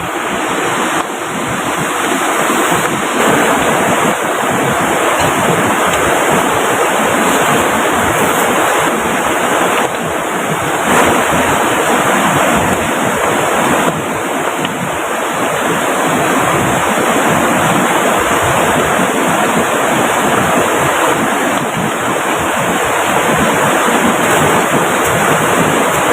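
Steady, loud rush of water from heavy rain and a swollen river running right beside the shelter.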